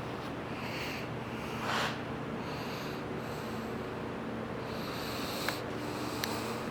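Room tone: a steady low electrical or ventilation hum with faint hiss, a short soft noise about two seconds in and a couple of faint clicks near the end.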